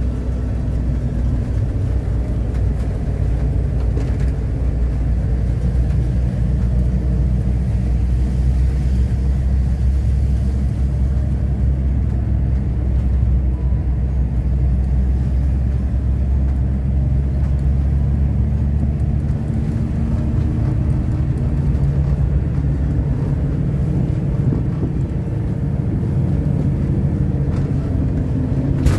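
A VW T3 double-cab pickup being driven, its engine running steadily. About two-thirds of the way through, the engine note shifts higher.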